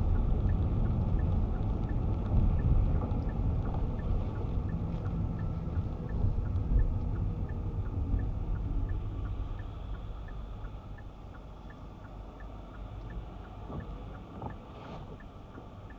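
Car interior rumble of the car's tyres and engine on a wet road, loud at first and fading about halfway through as the car slows. A faint regular ticking, about twice a second, runs beneath it.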